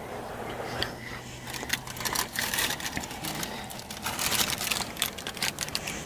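Irregular soft clicks and crinkles of a fast-food burger and its paper wrapper being handled, with a low hum under the first couple of seconds.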